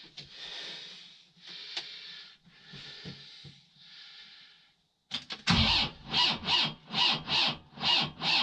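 John Deere tractor engine cranking slowly over, with loud, even chugs about two and a half a second, after a few faint hissy attempts; it does not catch. The slow cranking is the sign of a battery too weak in the cold.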